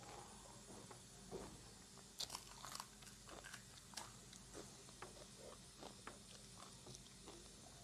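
Faint, close crunching and chewing as crisp panipuri shells are bitten and eaten, in short irregular crunches with a few sharper ones about two seconds in.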